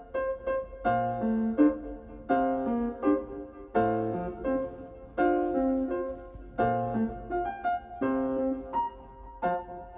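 Background music: a gentle piano melody with notes struck in an even rhythm.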